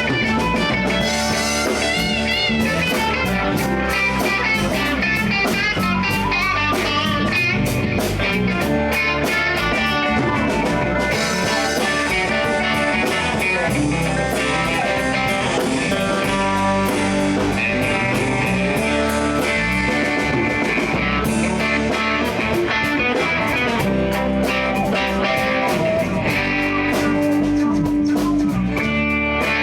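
Live blues band playing an instrumental passage: electric guitar leading over drum kit and bass, with bent, wavering notes.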